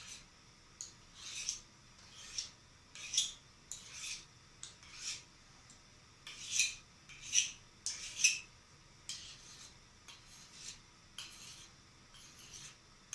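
Kitchen knife blade drawn along a honing steel in slow, unhurried strokes, a short metallic scrape about once a second, bringing the edge back into line.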